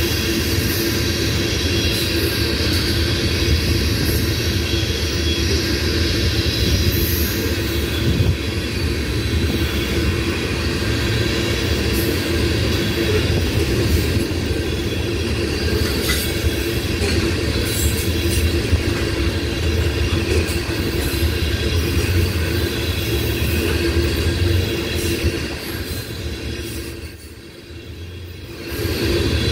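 A long freight train of loaded tank cars rolling past: a steady, loud rumble of steel wheels on the rails, with a thin high wheel squeal over it. The noise dips for a couple of seconds near the end.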